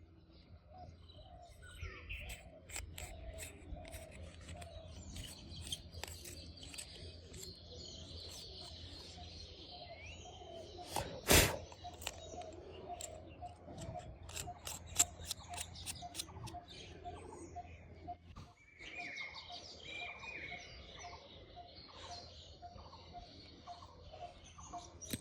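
Faint bird chirping, with a run of short evenly spaced pips and scattered clicks. One louder click comes about eleven seconds in.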